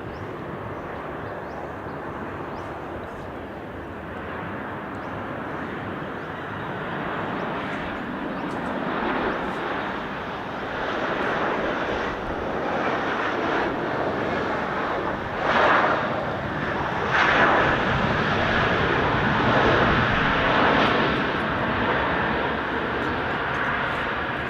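Jet airliner engine noise: a steady rush that builds over several seconds and stays loud, with two brief swells past the middle.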